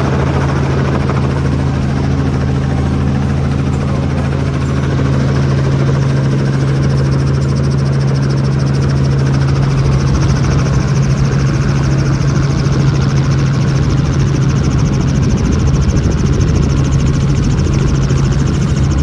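Helicopter running steadily in flight: a loud constant low hum from rotor and turbine with rushing noise over it, turning rougher and hissier about halfway through.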